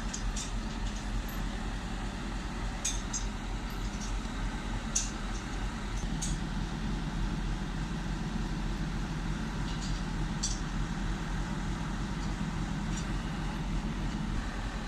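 An engine running steadily, with scattered sharp metallic clinks.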